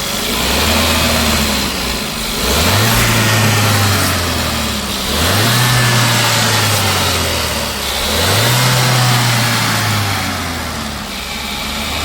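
Volkswagen Polo engine revved from idle three times, each rev rising quickly, held for a second or two, then falling back to a steady idle.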